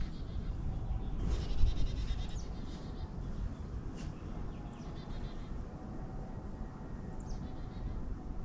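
Birds calling: short high calls that slide downward, a couple of seconds apart, and a brief buzzy trill about a second and a half in, over a steady low rumble.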